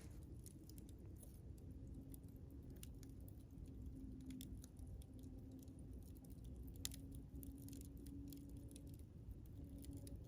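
Wood campfire crackling, with scattered sharp pops and snaps, one louder pop about seven seconds in, over a low rumble of the burning fire and a faint low hum that comes and goes.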